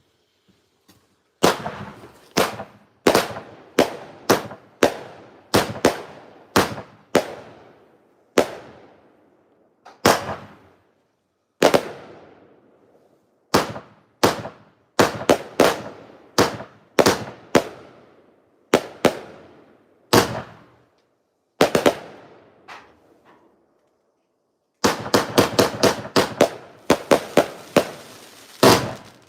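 Fireworks going off: a long run of sharp bangs, each echoing away, about one or two a second with a few short pauses, then a rapid volley of bangs near the end.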